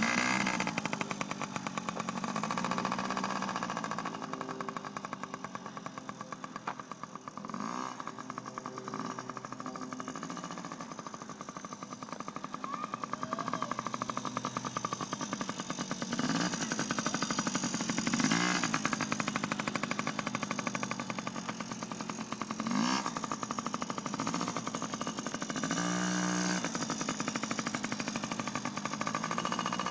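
Small motorcycle engine running as it is ridden, its pitch rising several times in short sweeps as the throttle is opened and then eased off.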